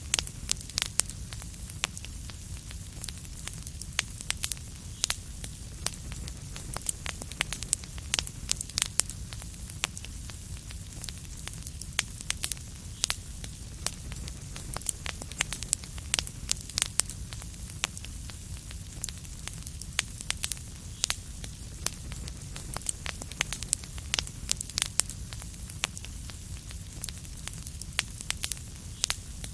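Fireplace fire burning, with dense irregular crackles and pops over a steady low rumble.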